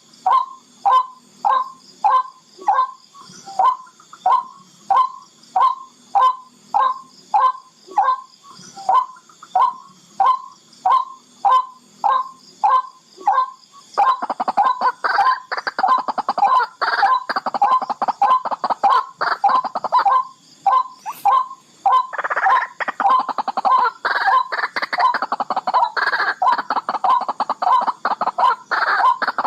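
Barred rail calling: a steady series of sharp notes, a little under two a second. About halfway through, a much faster, rattling run of notes joins in and carries on to the end, with the single notes still heard through it.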